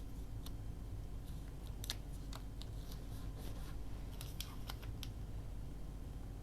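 Scissors snipping paper in a few short, separate cuts, over a steady low hum.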